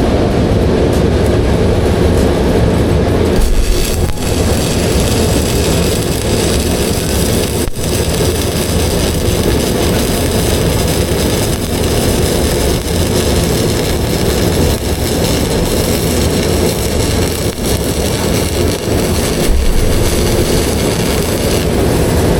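Electric arc welding: the arc running steadily while a practice bead is laid, with a couple of momentary dips where it briefly drops.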